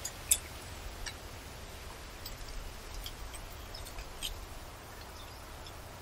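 Forest birds giving short, sharp, high chirps scattered about once a second, the loudest about a third of a second in, over a low steady rumble.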